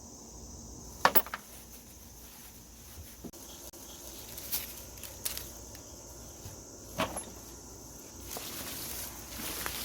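A few sharp clicks and knocks, the loudest about a second in and others near the middle, over a steady high insect chorus.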